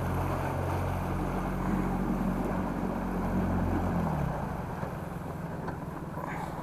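An engine running steadily with a low hum, its pitch and level dropping slightly about four seconds in.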